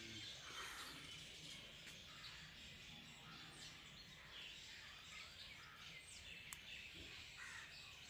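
Faint, scattered bird chirps and short calls over a quiet outdoor background hiss, with one sharp click a bit past six seconds in.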